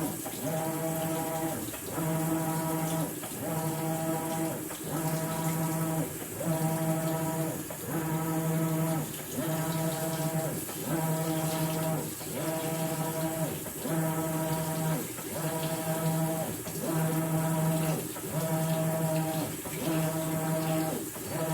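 Maytag Bravos XL top-load washing machine agitating a load of bedding: the drive motor hums through regular back-and-forth wash strokes, about one a second, with water sloshing in the tub.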